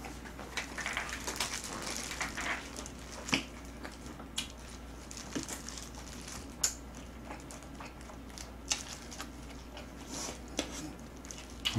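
Close-up chewing of a mouthful of boiled pork and green onion kimchi: wet squishing with short mouth clicks and smacks at irregular intervals.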